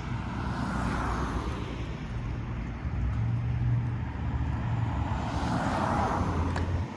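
Road traffic: cars passing by, one swelling about a second in and another near the end, over a steady low rumble.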